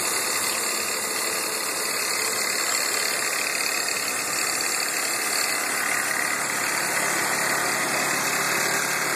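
Car engine idling roughly while in drive, running steadily with no change in speed.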